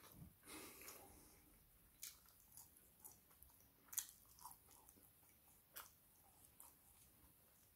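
Faint close-up chewing and lip-smacking of a person eating chips and barbecue chicken wings by hand: scattered short wet smacks, the sharpest about four seconds in.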